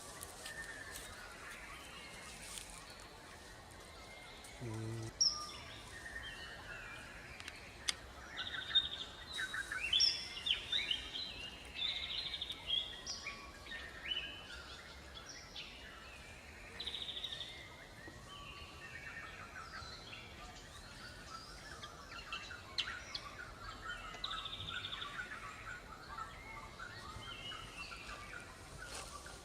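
Forest ambience: several birds chirping and singing in quick, overlapping phrases over a steady background hiss, with one brief low call about five seconds in.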